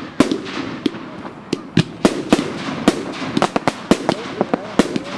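Fireworks going off: many sharp bangs and cracks in quick, irregular succession over a continuous crackle of distant bursts.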